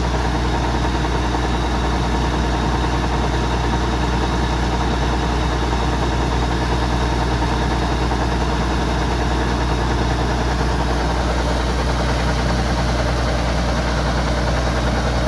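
Kubota DC-105X combine harvester running steadily, its engine hum under a dense, even whirr of the harvesting machinery.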